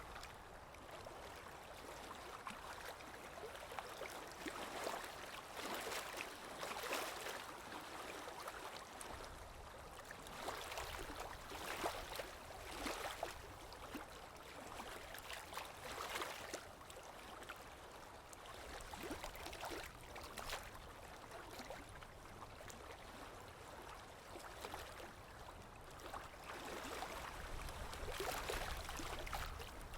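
Water waves washing in, the sound swelling and easing every few seconds.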